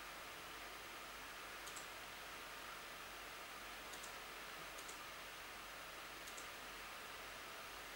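Four faint, sharp clicks, each a quick double click, spread unevenly over a steady low hiss.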